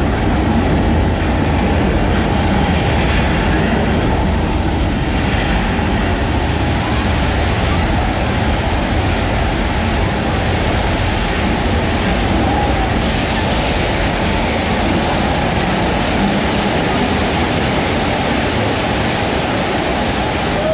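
Staged earthquake special effect in a subway-station set: loud, steady rumbling with a heavy low end, sounding like a subway train running.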